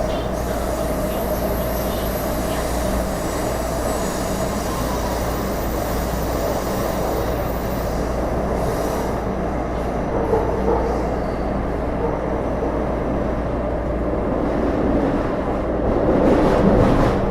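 Taipei Metro Series C301 subway car, Bombardier IGBT-VVVF refit, heard from inside while running: steady wheel-on-rail rumble and track noise. A faint high whine sounds through the first half, and the noise swells near the end.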